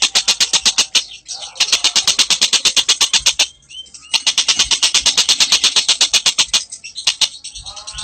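Bird chatter: a rapid, very regular series of sharp high notes, about ten a second, broken three times by brief pauses in which softer sliding calls are heard.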